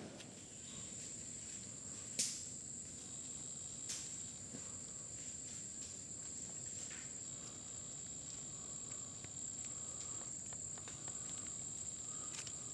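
Rainforest insects keeping up a steady high-pitched drone, with a sharp click about two seconds in and a softer click near four seconds.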